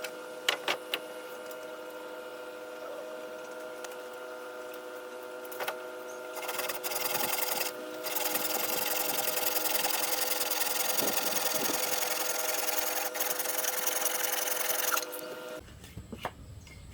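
A small electric power tool running at a steady pitch, with a few clicks near the start. It gets louder and harsher from about 7 s, as if working under load, with a brief break near 8 s, then stops suddenly near the end.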